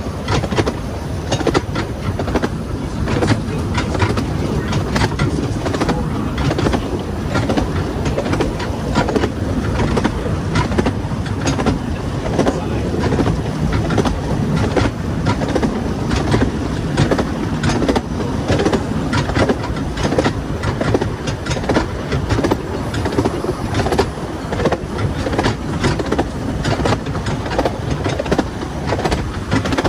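Narrow-gauge passenger carriage running along the track behind a steam locomotive: a steady rumble and rattle, with frequent irregular clicks and knocks from the wheels and running gear.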